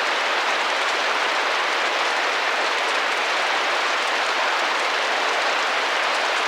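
Rain drumming steadily against a window, an even, unbroken hiss.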